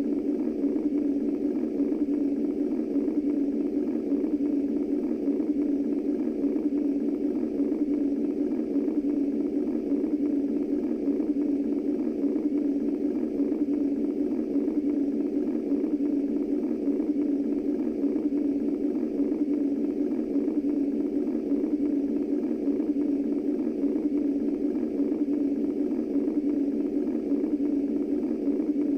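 Womb white noise: a steady, low, muffled rushing noise.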